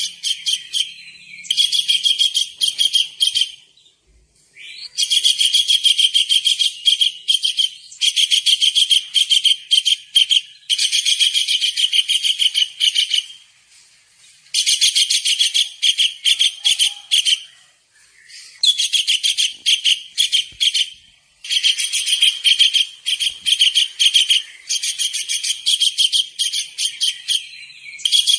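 Small kingfisher (tengkek udang) calling: loud, high, rapid chattering trills in repeated phrases of one to two seconds, separated by short pauses.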